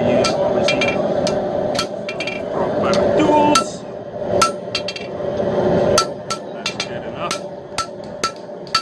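Hammer striking hot steel on an anvil while forging the handle of a knife: ringing blows at first, then quicker, lighter taps, about three a second, from about six seconds in.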